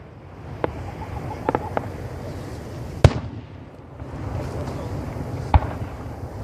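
Professional aerial fireworks shells bursting: a few smaller cracks in the first two seconds, then two loud booms about three seconds and five and a half seconds in.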